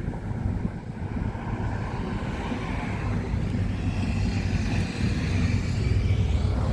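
Steady low rumble of motor vehicles, growing somewhat louder toward the end.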